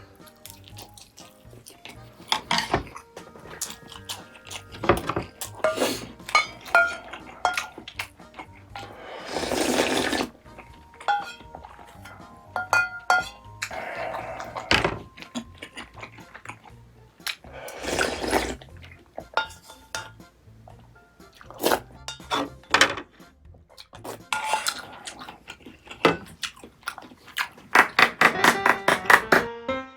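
Light background music with utensils clicking and clinking against dishes, and several short rushing bursts about a second long, typical of slurping soup in a mukbang.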